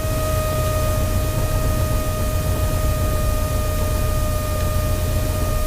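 Light aircraft's engine and propeller running steadily, heard inside the cabin as a constant low rumble with a steady high whine over it.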